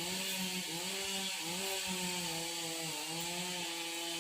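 Stihl MS 381 two-stroke chainsaw cutting sengon wood, its engine pitch repeatedly sagging and picking back up as it works in the cut.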